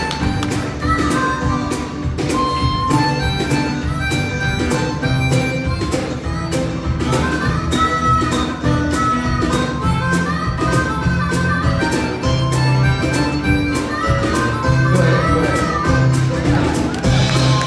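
Live folk band playing an instrumental break over a steady drum beat, with a lead instrument playing a sliding, bending melody above guitar and bass.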